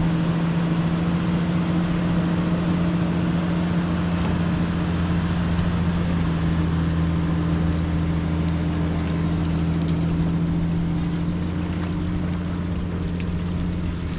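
Motorboat engine running steadily at speed, just after being throttled up, with wind and water rushing past.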